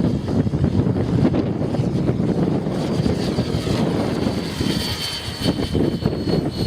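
Strong wind buffeting the microphone, with the high whine of an Align T-Rex 600E Pro electric RC helicopter's motor and rotors coming through about halfway in.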